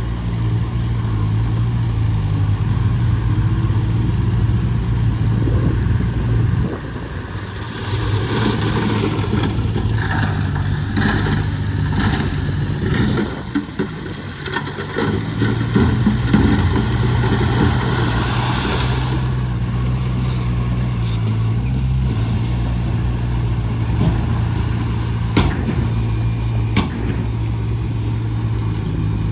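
Heavy diesel engine of earthmoving machinery running steadily. From about eight seconds in, a stretch of scraping and rattling lasts for about ten seconds, then the engine runs on alone with a few sharp clicks near the end.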